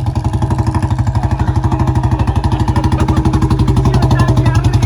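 Royal Enfield Bullet single-cylinder engine running through a loud aftermarket exhaust, a rapid even thumping beat held steady in pitch.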